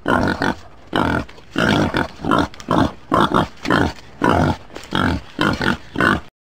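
Warthog grunting: a series of about a dozen short, rough grunts, roughly two a second, which stop abruptly near the end.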